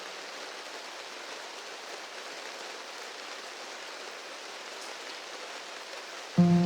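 Steady rain falling, a soft, even hiss. Music with piano-like notes comes in suddenly near the end.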